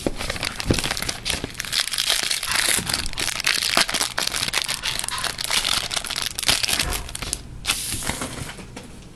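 Crinkling and crackling of a hockey-card pack wrapper being handled and crumpled, with many small crackles and a brief lull near the end.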